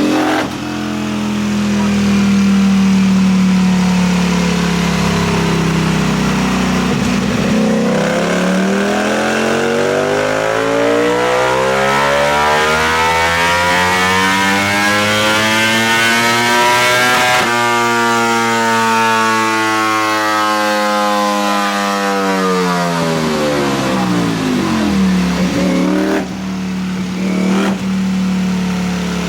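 2021 Ducati V4 motorcycle engine running through an aftermarket CS Racing exhaust: idling, then climbing steadily in revs for about ten seconds, breaking off sharply at the top, and winding back down to idle.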